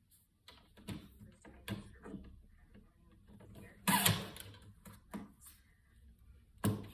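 Objects being handled by hand: a series of light knocks and clicks, a loud rustling scrape about four seconds in, and a sharp knock near the end.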